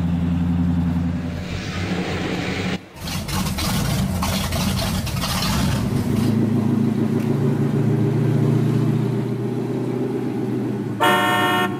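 Sound effect of a road vehicle's engine running: a steady low idle, a short break about three seconds in, then a few seconds of revving with a hiss, settling back to a steady run. A vehicle horn sounds near the end.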